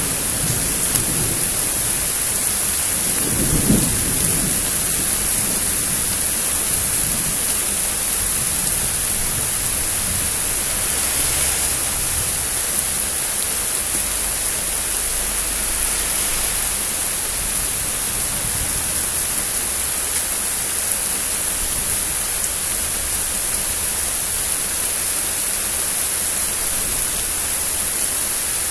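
Steady rain falling in a thunderstorm, with a low rumble of thunder about three to four seconds in.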